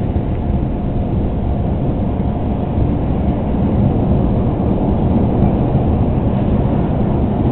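CTA Green Line 'L' train running on the elevated Loop track between stations, heard from inside the car: a steady low rumble of wheels and motors.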